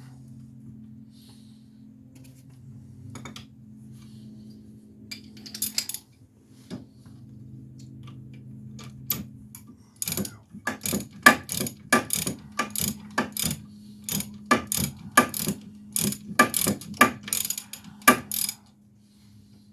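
Hand ratchet wrench clicking in quick strokes, about two to three a second, for most of the second half, turning a bolt on the wheel hub bearing. A few single clicks come before it, over a steady low hum.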